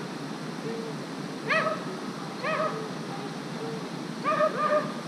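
Dog whimpering and yipping in short, high, arching cries, about four loud ones with fainter whines between, over a steady rush of falling water. The stranded dog's cries are those of an animal in distress.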